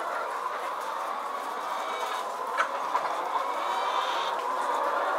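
A large flock of caged laying hens clucking and calling together in a steady, dense din. A single sharp click comes about two and a half seconds in.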